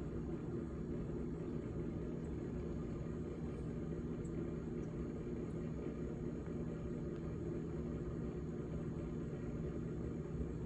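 GE GTH18XCTZRBB refrigerator running with a steady low hum made of several held tones over a faint rumble.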